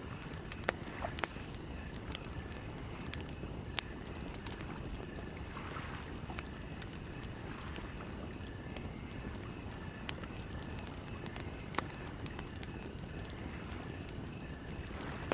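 Campfire crackling with scattered sharp pops over a steady low rumble of wind, and a faint pulsing chirp running high in the background.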